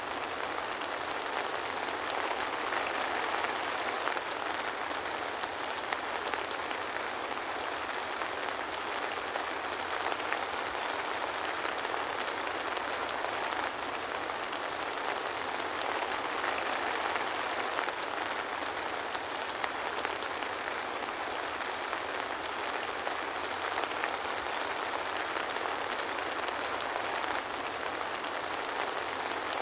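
Soft rain falling steadily.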